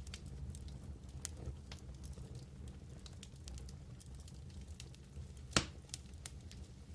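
Wood fire burning in a fireplace, with a low steady rumble of flames and scattered small crackles. One much louder pop comes about five and a half seconds in.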